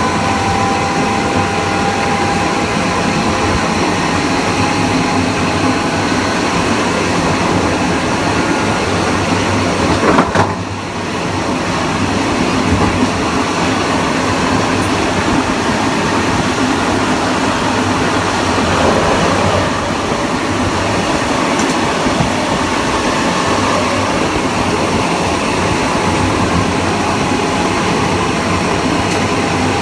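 Kawasaki M9 electric multiple-unit train running along the track: steady rolling and traction-motor noise, with a faint steady tone early on that fades. About ten seconds in there is a single brief sharp crack, then a short dip in the noise.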